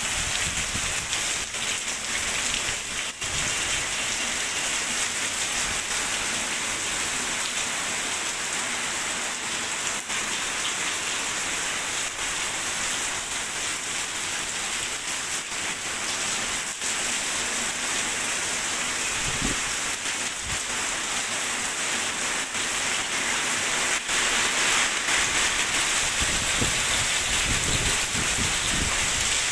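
Heavy rain falling steadily onto walls, tarpaulin-covered rooftops and a wet, puddled street, an even hiss that grows a little louder near the end.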